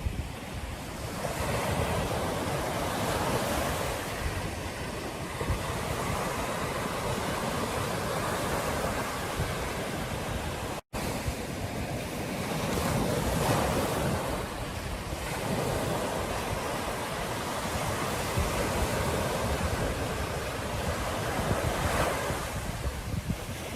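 Ocean surf washing onto a beach in slow swells, with wind rumbling on the microphone. The sound cuts out for an instant about eleven seconds in.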